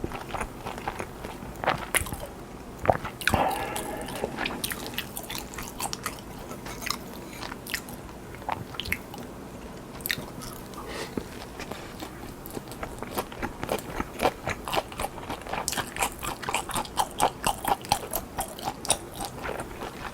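Close-miked eating sounds: biting, crunching and chewing food, with a dense run of quick crunches, about four a second, near the end.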